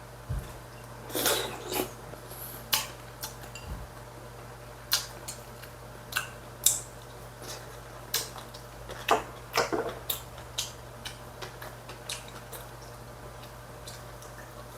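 Eating utensils clicking and tapping against dishes during a meal: a scattering of short, sharp clicks at irregular intervals, over a faint steady low hum.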